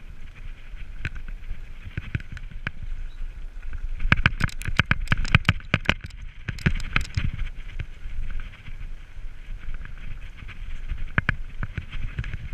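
Mountain bike rattling over a rough trail: a steady low rumble with a dense run of clicks and knocks about four seconds in, and a few more near the end.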